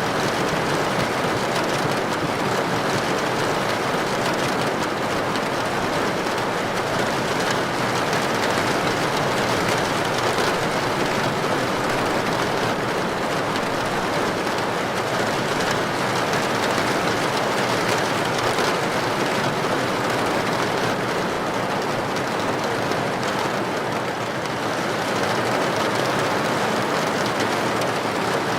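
Heavy rain drumming steadily on a tin roof, a dense, even patter with no thunderclaps.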